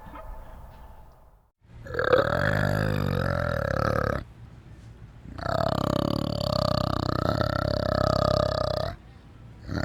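An animal's long, low, pitched calls: two drawn-out calls of about two and three seconds, and a third beginning near the end.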